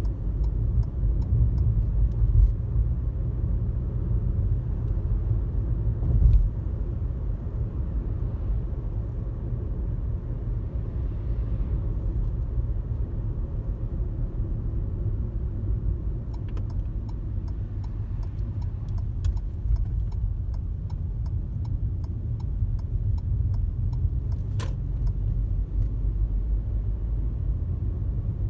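Steady low road rumble of a car driving on a highway, heard from inside the cabin. There is a brief louder bump about six seconds in and a run of faint, regular ticking in the second half, ending with a sharp click.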